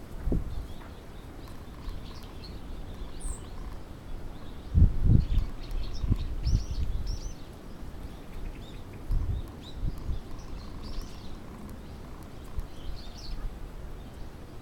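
Small birds chirping and calling on and off with short high chirps, over faint outdoor background noise, with a few low thumps or rumbles around the middle.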